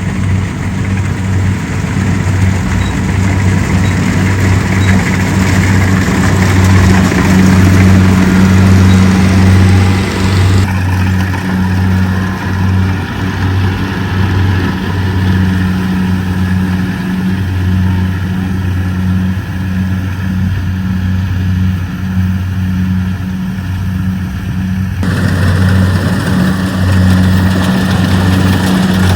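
Rice combine harvester engine running steadily, a deep continuous hum. The sound changes abruptly about a third of the way in and again near the end.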